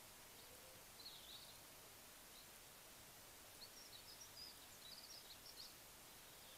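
Near silence with a steady faint hiss, broken by faint, high chirps from a small bird: a short twittering phrase about a second in, then a longer run of quick chirps from about three and a half to nearly six seconds.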